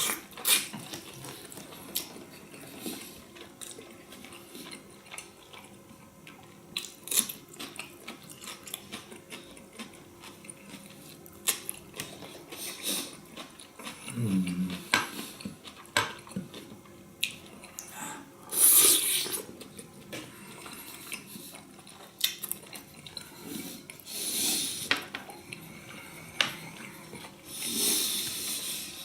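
Close-miked eating of beef tongue: cutlery clicking and clinking on a plate, with wet chewing and smacking mouth sounds throughout. A few longer wet, hissy mouth sounds come toward the end, and there is a short low throat sound about halfway through.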